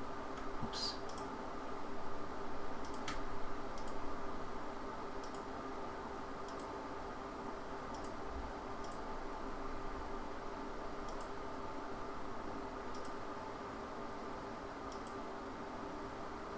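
Scattered clicks of a computer mouse, about a dozen, irregularly spaced, over a steady background hum with a constant low tone.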